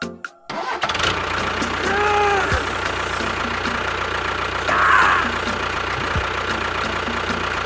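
A small motor running steadily, starting about half a second in, with a brief high chirp about two seconds in.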